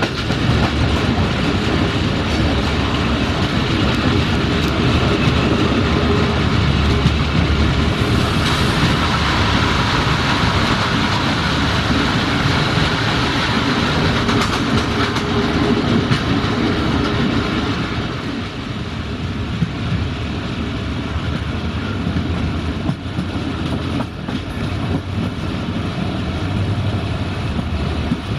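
Passenger train coaches running along the track, heard from an open window: a steady rumble of wheels on the rails with clickety-clack over the rail joints. It eases somewhat about two-thirds of the way through.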